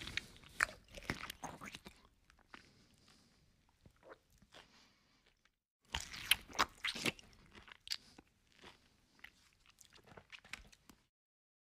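Close-miked chewing and crunching of a hand-eaten meal of rice and fried fish, mouthful after mouthful of crunchy bites, with busy spells at the start and again about six seconds in and softer chewing between; it cuts off suddenly near the end.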